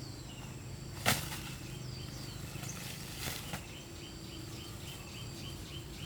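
A sharp thud about a second in, a coconut thrown down from the palm being caught, and a softer knock a couple of seconds later. From the middle on, a bird chirps over and over, two to three times a second, over a steady high insect drone.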